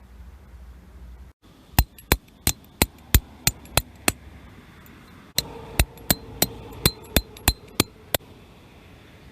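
A hammer striking metal in two runs of about eight blows each, roughly three a second, with a short pause between; the blows in the second run leave a ringing tone.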